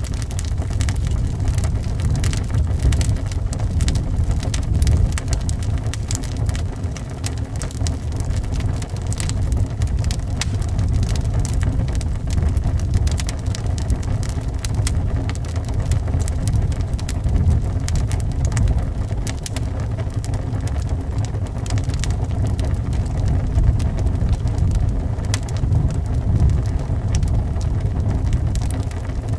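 Wood fire crackling in a fireplace, with many small sharp pops, over a steady low rumble of wind.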